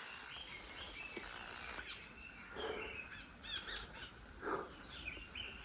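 Many small birds chirping and calling together in pine woodland, short high chirps and trills overlapping throughout.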